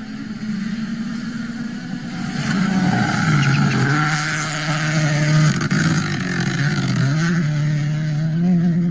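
Rally car engine revving hard, growing louder about two and a half seconds in, its pitch dropping and climbing again twice, over a steady hiss.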